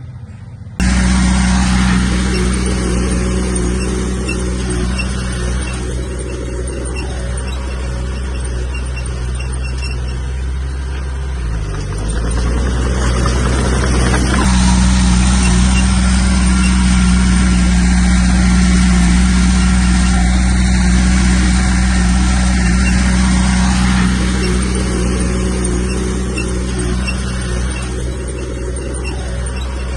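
Bulldozer's heavy diesel engine running steadily under load as it works. The sound starts abruptly about a second in, the engine pitch dips briefly around twelve seconds in, and it is louder through the middle stretch.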